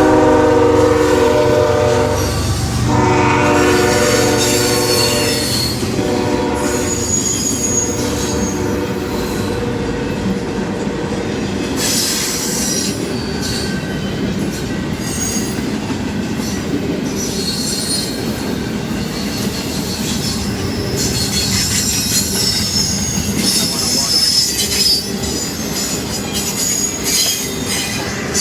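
CSX train's locomotive horn blowing at a grade crossing, sounding twice near the start, then the train rolling past with a steady rumble of wheels on rail and recurring high-pitched wheel squeal.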